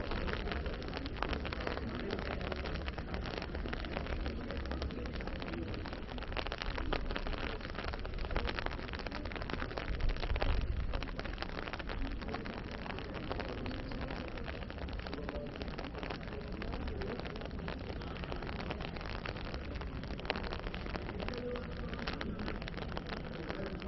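Steady outdoor noise with a dense patter, like rain falling on a surface, over a low rumble that swells briefly about ten seconds in.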